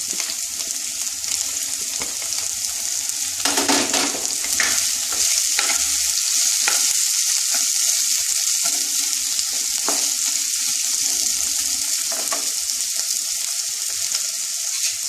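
Onion, spices and just-added chopped tomato sizzling in hot oil in a non-stick kadai, a steady high hiss. A wooden spatula scrapes and knocks against the pan every second or two as the mixture is stirred.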